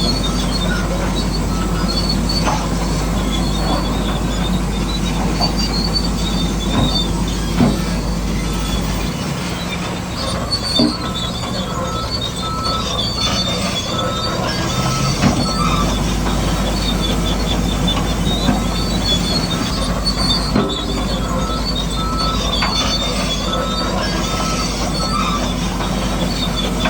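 Radio-controlled model construction machines running, with a continuous whine of small electric motors and gearing and a few knocks. A series of short, evenly spaced beeps starts about 11 seconds in and stops near the end.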